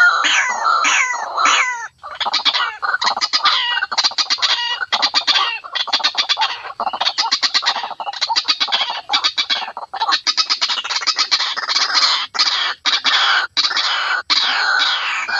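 White-breasted waterhen calling: first a few downward-sliding notes, then fast runs of short, harsh repeated notes.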